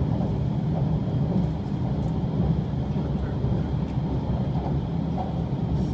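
Steady low rumble of the Shiokaze limited express train running at speed, heard from inside the passenger car.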